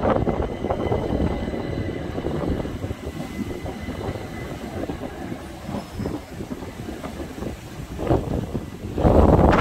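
Southeastern Class 375 Electrostar electric multiple unit running by on the rails, a steady rumble with irregular wheel knocks over rail joints and a faint thin whine above. Near the end a gust of wind buffets the microphone loudly.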